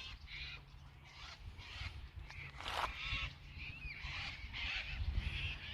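Birds calling in many short, repeated calls, one with a curving glide in pitch, over a low steady hum.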